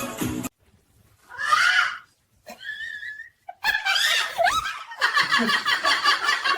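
A parrot calling: a harsh squawk, a short whistle, then a longer run of pitched, wavering calls. Music cuts off about half a second in.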